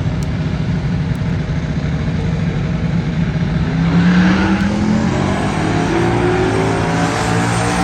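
A car engine running, then accelerating about halfway through, its pitch rising steadily.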